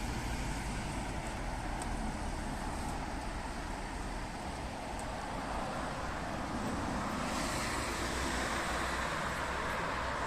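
Street traffic noise: a steady wash of passing road vehicles, growing a little brighter and louder about seven seconds in as a vehicle goes by.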